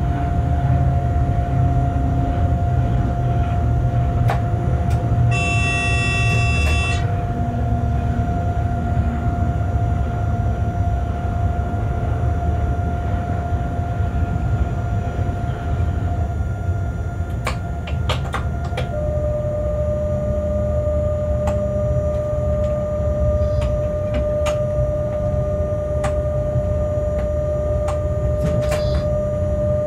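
Freight train running at speed, heard from the locomotive cab: a steady rumble of wheels on rail with a steady whine that drops slightly in pitch about two-thirds of the way in, while a container freight train passes on the next track. A short horn-like tone sounds for about two seconds, about five seconds in, and there are scattered light clicks in the second half.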